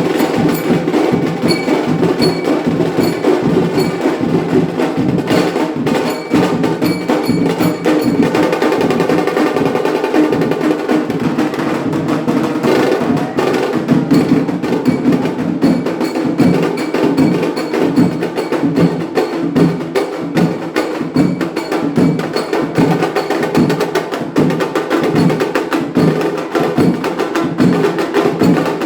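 Indian wedding band (band baaja) playing: drums and percussion beating a steady, even rhythm under a melody line.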